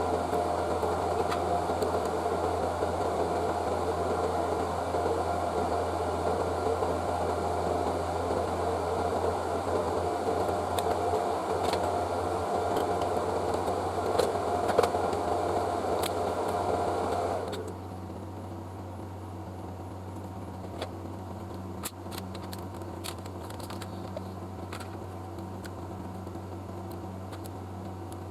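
A small electric blower runs with a steady rushing noise and stops abruptly about two-thirds of the way through. After that, only a low steady hum and a few faint light ticks remain.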